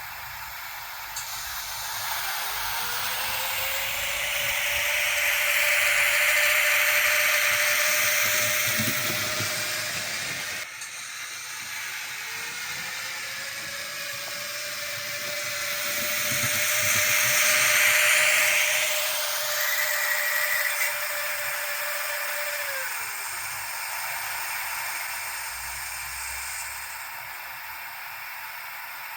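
Sound decoder of a Minitrix BR 103.1 N-scale electric locomotive model playing electric-locomotive running sounds through its small speaker: a hum that glides up in pitch and holds, over a rushing hiss that swells and fades, twice, with a break about ten seconds in; the second time the hum glides back down near the end.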